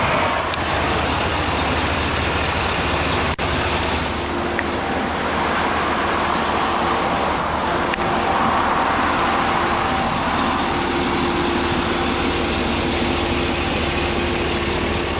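The 2008 Isuzu NPR's General Motors 6.0-litre gas V8 idling steadily, with a short click about three seconds in.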